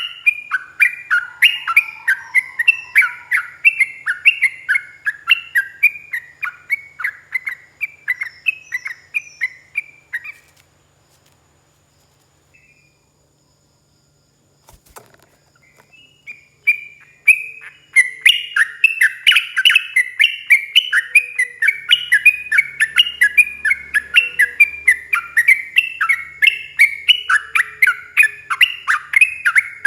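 Yellow-vented bulbul singing a long, fast run of repeated chirping notes, about three or four a second. The song breaks off about ten seconds in, leaving a few seconds of near silence, then resumes as before.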